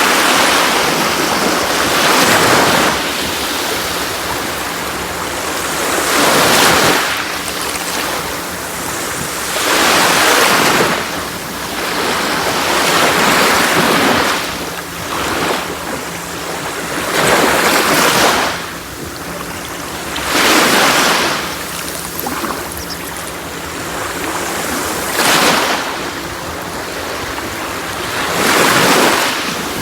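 Sea waves breaking on a shore, one surge of surf every three to four seconds, with a continuous wash of water between them.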